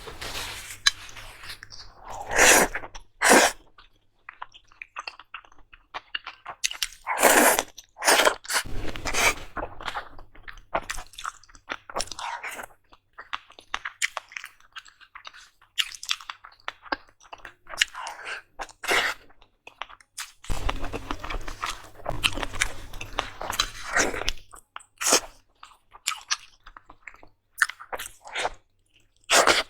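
Close-miked mukbang eating: a person chewing and crunching food, with sharp loud crunchy bites at irregular moments between quieter wet chewing.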